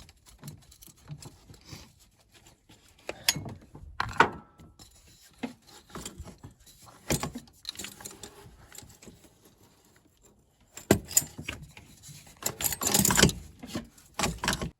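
Metal hand tools working bolts on a diesel engine: scattered clinks and knocks of a socket wrench and extensions against metal, with a longer run of rattling near the end.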